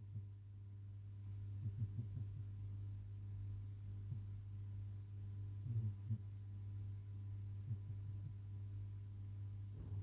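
A low steady hum with a few faint soft taps scattered through it.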